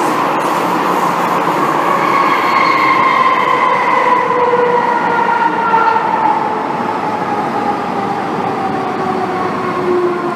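MTR M-Train electric multiple unit heard from inside the car while braking: a howl of several tones that fall steadily in pitch as the train slows, over the rumble of the running train. This is the M-Train's strong 'ghost howl' braking sound.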